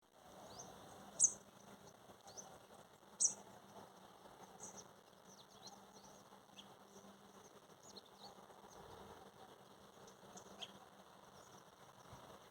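Small birds chirping outdoors: scattered short, high calls, two of them louder in the first few seconds, over a faint background hush.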